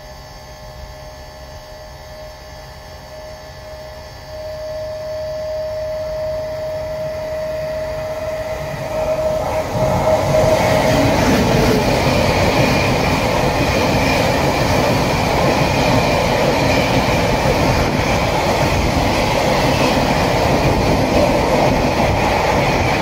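A train approaching and running past the platform. A steady high tone grows louder from about four seconds in. Around ten seconds in, the loud rumble of the train's wheels on the rails rises sharply and stays loud.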